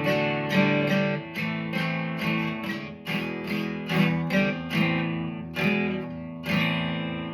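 Acoustic guitar strumming chords in a steady rhythm, about two strums a second, with no singing: an instrumental passage of a song.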